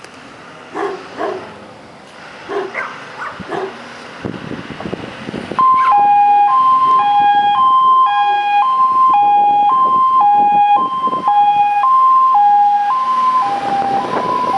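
A dog barks several times. About five and a half seconds in, a fire engine's two-tone siren switches on loud, alternating between a high and a low tone about every half second as the engine sets off on an emergency call.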